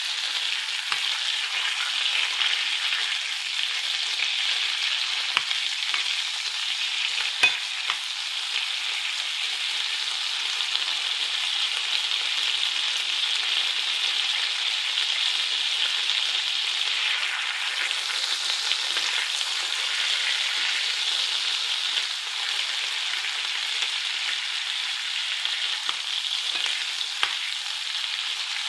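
Turkey liver sizzling steadily as it fries in butter in a nonstick skillet over lowered heat to cook through. A few sharp ticks come from the metal utensil knocking the pan, the loudest about seven and a half seconds in.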